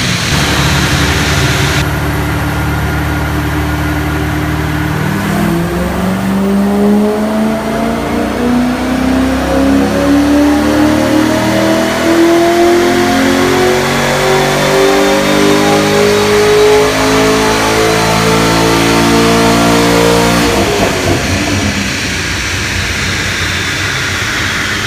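Chevrolet Corvette C6 Z06's 7.0-litre LS7 V8, breathing through catless 1 7/8-inch long-tube headers and LG mufflers, on a chassis dyno: it runs at a low steady note for about five seconds, then makes a full pull with the engine note climbing steadily through the revs for about fifteen seconds, and the throttle closes and it falls back to a low note near the end.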